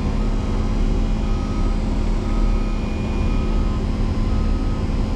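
Motor grader's diesel engine running steadily under load while plowing deep snow, with a faint beep repeating a little faster than once a second.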